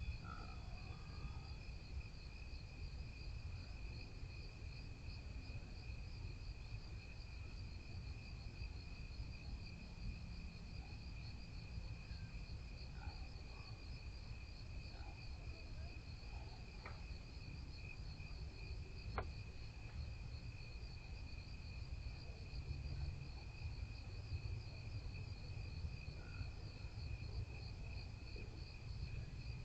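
Evening insect chorus: crickets chirping steadily at two different pitches, one higher than the other, over a low rumble. Two sharp clicks sound about 17 and 19 seconds in.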